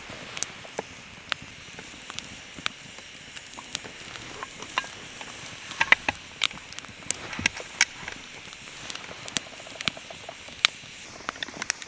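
Wood campfire crackling: irregular sharp pops and snaps over a steady low hiss, a few of them louder.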